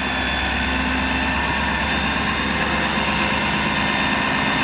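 The truck's Ford Power Stroke diesel engine running steadily at constant speed, with a steady whine over it.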